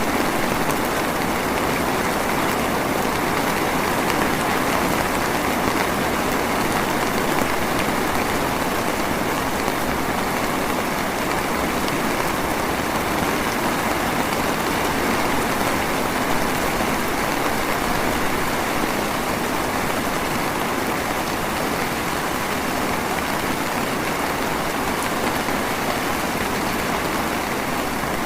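Steady drizzle falling, a continuous even patter of fine raindrops with no change in strength.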